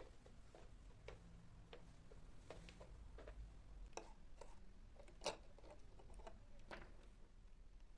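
Near silence, with faint, scattered light clicks and taps at an uneven pace and one sharper click about five seconds in.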